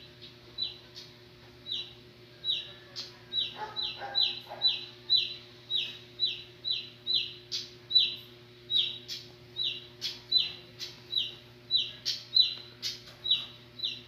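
A small bird calling over and over: short, high chirps that slide down in pitch, about two a second, keeping an even pace.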